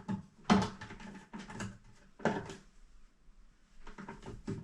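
A few separate knocks and short rattles of a part being handled and set in place on a tankless water heater during reassembly.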